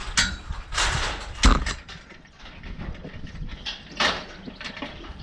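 Metal farm gate being handled and swung: rattling and clanking, with one sharp clank about a second and a half in and another knock near four seconds.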